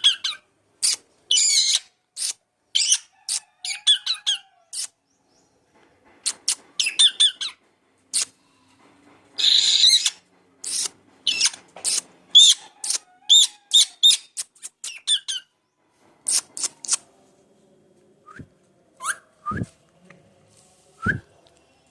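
Parrot making repeated kissing smacks, short sharp sounds coming in quick runs with brief pauses between, thinning out near the end.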